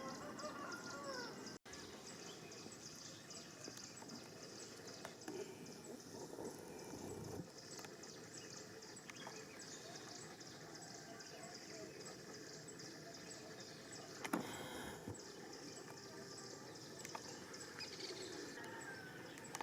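Outdoor ambience: a high chirp repeating evenly a few times a second, with a few short gliding calls near the start and a single sharp knock about 14 seconds in.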